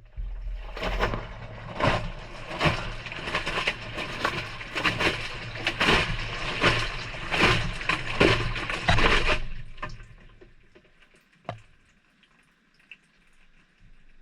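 Maytag front-loader drum tumbling a delicate load, heard from inside the drum: wash water sloshing and splashing in regular strokes a little under a second apart over the low hum of the motor. The tumbling stops about nine and a half seconds in, and a couple of faint clicks follow.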